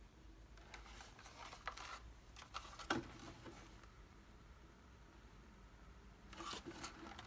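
Faint, scattered clicks and rustles of small objects being handled, with a sharper single knock about three seconds in and another cluster of clicks near the end.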